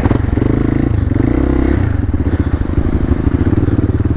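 Hero Xpulse 200's single-cylinder engine running with uneven revs, the throttle opening and closing as the bike is worked through mud.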